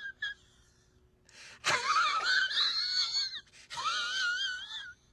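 High-pitched, wavering whining from a voice: two drawn-out whines of about a second and a half each, after a short one at the start.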